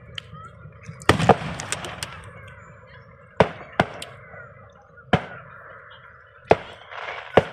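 Fireworks going off: about seven sharp bangs a second or two apart, the loudest pair a second in, followed by crackling.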